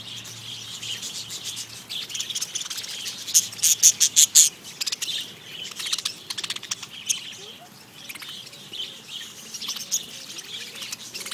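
A flock of budgerigars chirping and chattering continuously, with a louder run of rapid sharp chirps about three to four and a half seconds in.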